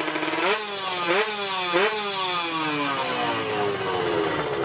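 A drag-racing motorcycle engine revved in three quick throttle blips, each a sharp rise in pitch, then the revs falling away slowly and steadily.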